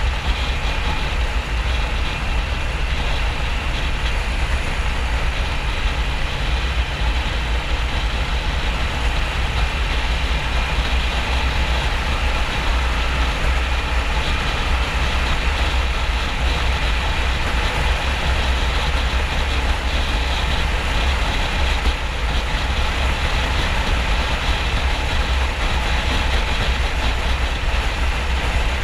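Steady wind rush and running engine of a 2009 Harley-Davidson XL1200N Nightster's air-cooled V-twin, ridden at motorway speed.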